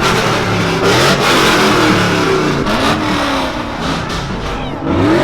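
Truck engine revving hard, its pitch climbing and falling repeatedly.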